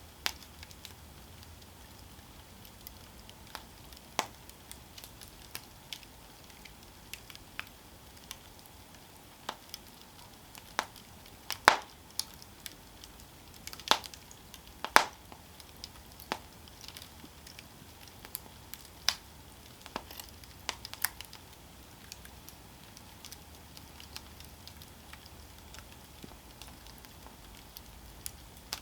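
Wood campfire burning, with a soft steady hiss and irregular sharp crackles and pops; the loudest pops come in a cluster about halfway through.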